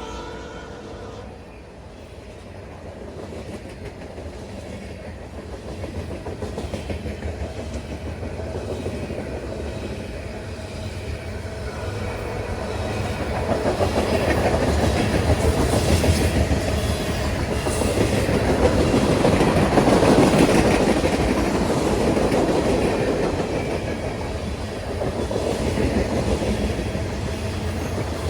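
Freight train cars rolling past with a steady rumble and wheels clicking over the rail joints, growing louder about halfway through. The last of the locomotive's horn fades out in the first second.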